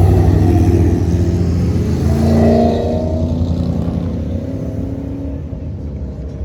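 A car engine with a deep rumble driving past, with a short rev a little past two seconds in, then fading as it moves away.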